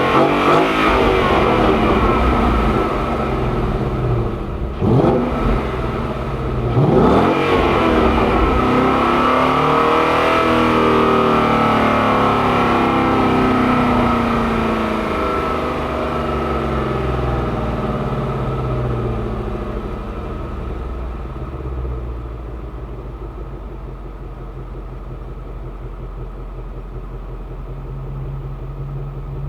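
2015 Ford Mustang GT's 5.0 V8 engine and exhaust running at high revs, with two quick dips and climbs in pitch about 5 and 7 seconds in. The pitch then falls slowly and the sound grows quieter, settling into a steady low note for the last several seconds.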